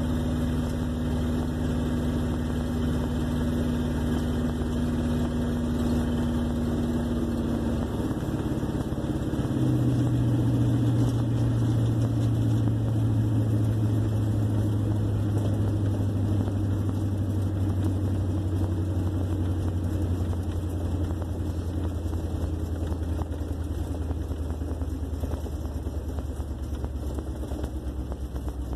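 1958 Plymouth Suburban's engine running steadily. Its note changes about a third of the way through and then slowly drops lower.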